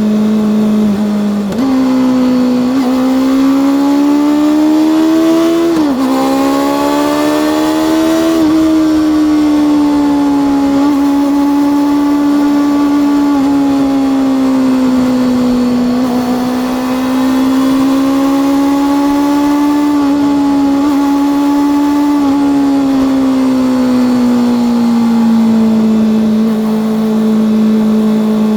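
Honda CB400 Super Four's inline-four engine under way, its pitch rising as the throttle opens, dropping sharply at a gear change about six seconds in, then climbing again. It then holds steady at cruising revs with gentle rises and falls and eases back down near the end.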